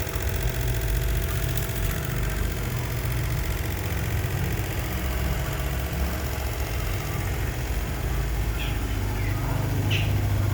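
An engine idling with a steady low rumble, with a few short faint high chirps near the end.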